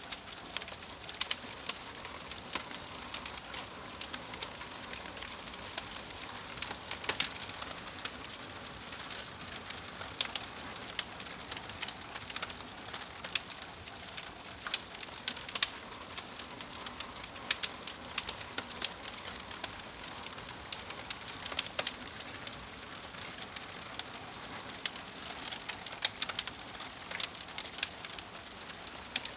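Crackling fire: a steady hiss with irregular sharp pops and snaps, several a second.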